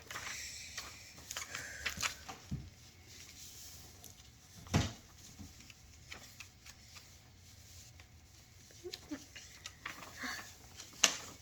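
Paper and sticky tape being handled while the tape is pressed along a paper airplane's edges: soft rustling and crinkling with small clicks, and two sharper taps about five seconds in and near the end.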